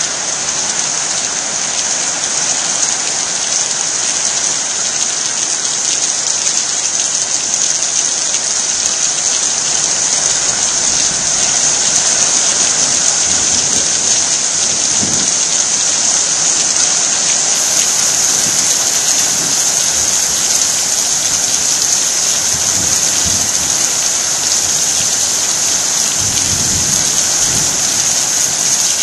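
Heavy rain pouring steadily, a dense even hiss. Faint low rumbles of thunder come in the second half.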